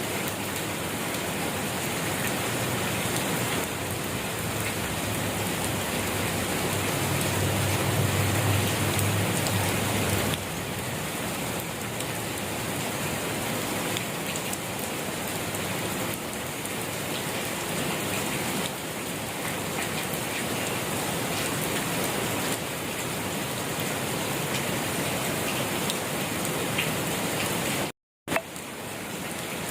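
Steady rain falling and pattering on a surface. A low rumble sits underneath for several seconds in the first third. The sound cuts out completely for a split second near the end.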